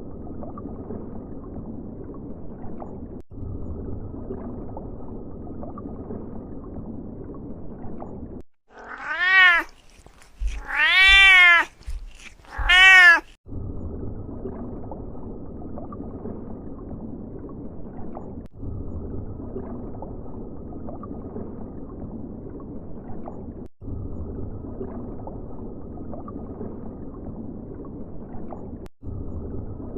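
A cat meowing three times in quick succession, each call rising and then falling in pitch, over a steady low noise that breaks off briefly every few seconds.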